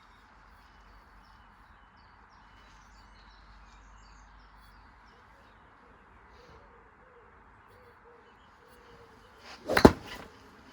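A single sharp, loud smack about ten seconds in, with a couple of smaller knocks around it: a golf shot driven at an old washing machine. Before it, only faint birdsong and a dove cooing.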